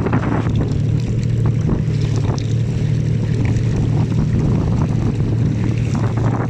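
A motorboat engine running steadily at a constant low pitch, with wind noise on the microphone.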